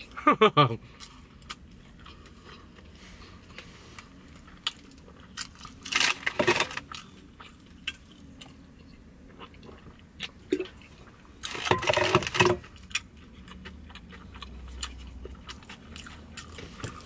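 A person chewing a mouthful of bánh mì, a crusty baguette sandwich, close to the microphone: soft crunching and small wet mouth clicks. Louder bursts stand out right at the start, about six seconds in and again about twelve seconds in.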